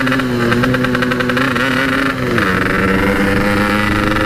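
Yamaha RX-King 135cc two-stroke single-cylinder engine, fitted with a standard-style Packing Power exhaust, running under way at steady revs, with a brief drop in pitch about two seconds in before it settles again. The engine is not yet warmed up and is short of power.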